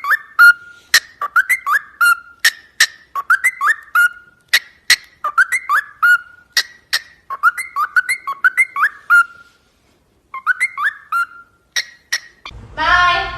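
A parrot whistling the same short rising-and-falling phrase about once a second, with sharp clicks between the whistles.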